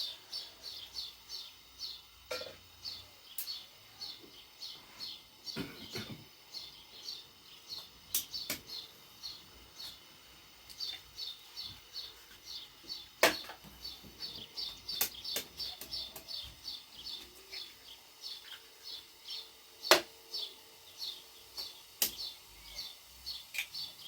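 A small bird chirping steadily, short high chirps about three a second. Several sharp knocks or clicks break in, the loudest about halfway through and again near the end.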